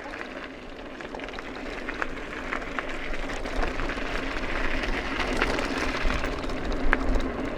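Wind rumbling on the microphone, growing stronger partway through, over a steady rushing noise with scattered light clicks.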